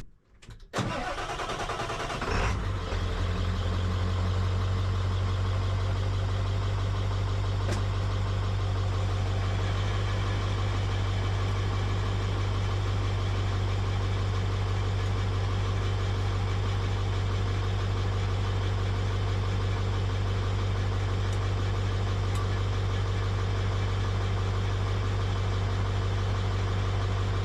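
1996 Ford F-250's 7.3-litre turbo-diesel V8 starting about a second in, then running steadily at idle. The truck is in gear with the rear axle jacked up, so the rear wheels spin freely to check that the axle is not bent.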